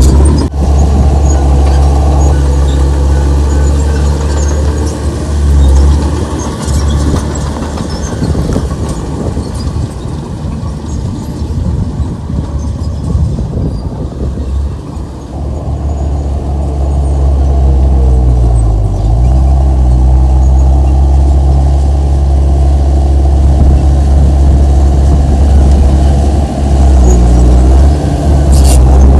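Heavy earthmoving machine's diesel engine running steadily under work, a loud low drone. It eases off for a few seconds in the middle, and about two-thirds of the way through its pitch dips briefly and comes back up.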